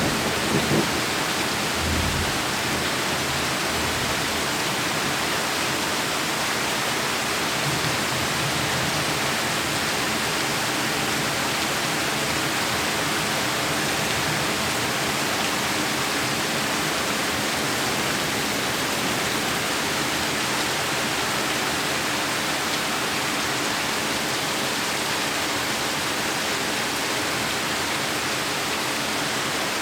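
Heavy rain pouring steadily, a dense even hiss. The last of a thunderclap rumbles out within the first two seconds.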